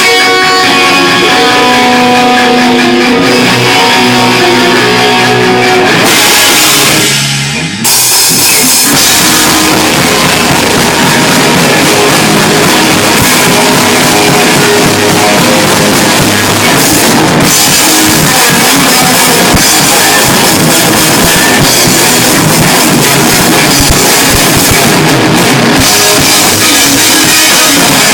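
Rock band playing live: a picked guitar line over the band for about six seconds, a swell and a brief drop near eight seconds, then the full band comes in with drum kit, cymbals and guitars and plays on loudly.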